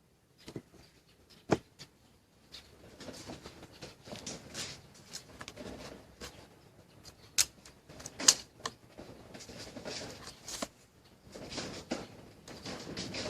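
Handling noises of work on a pop-up toaster: scattered sharp clicks and taps, with stretches of rustling and scraping between them.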